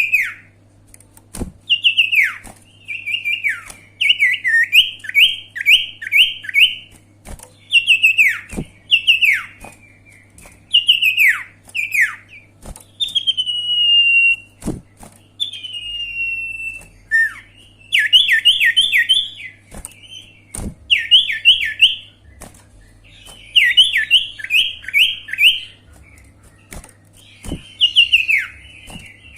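A sirtu singing loudly in full song: sharp, steeply falling whistles alternating with quick runs of four or five notes, repeated every second or two with short pauses, and a couple of longer, level whistles midway. A faint steady low hum sits underneath.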